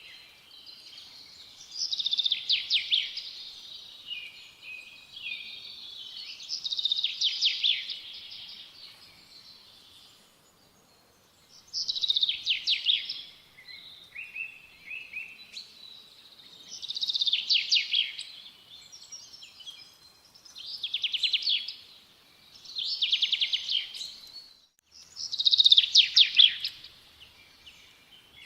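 A songbird singing: short, high, rapidly trilled phrases repeated every few seconds, with brief pauses between them.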